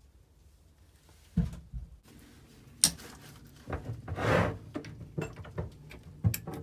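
A series of irregular knocks and clicks, with a short scraping or sliding sound about two-thirds of the way through: hard objects being handled and set down.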